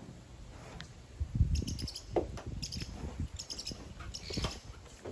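Birds chirping in short bursts of quick high notes, about once a second. Low dull thumps come in between, the loudest about a second and a half in.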